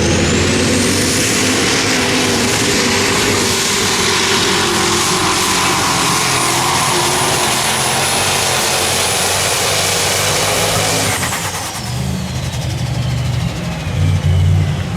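Unlimited super stock diesel pulling tractor under full throttle, a high turbocharger whistle climbing in the first second or so and then holding steady over the engine. About eleven seconds in the throttle comes off: the turbo whine winds down over a few seconds and the engine drops to a low rumble.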